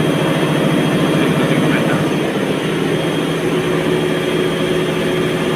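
Fagor washing machine drum spinning at speed on its motor, driven by a Delta MS300 variable frequency drive; a steady machine hum whose tone settles to one held pitch about halfway through.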